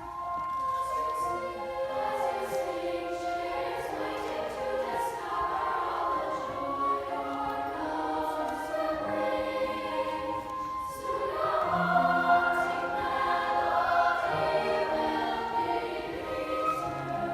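A youth choir singing held chords in several parts. About eleven seconds in there is a brief break, after which lower voices come in beneath the upper parts.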